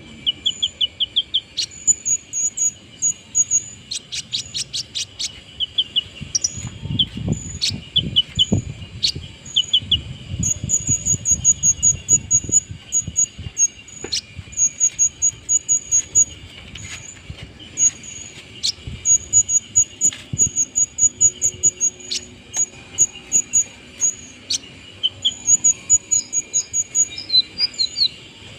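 A kolibri ninja (sunbird) singing: quick runs of high, thin chirps repeated throughout, mixed with short trills of lower notes. The bird is settled and in song just after its moult. A low rumble runs for several seconds through the middle.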